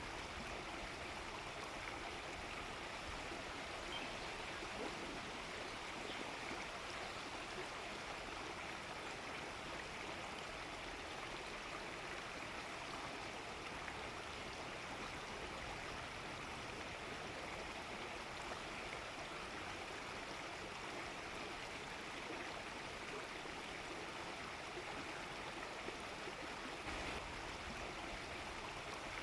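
Steady rushing of a running stream.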